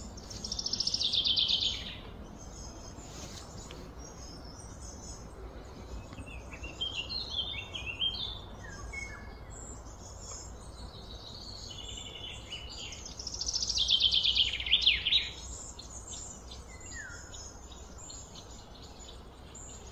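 Birds calling: two loud, rapid trilled phrases, one about a second in and one around two-thirds of the way through, with shorter chirps between them over a faint low rumble.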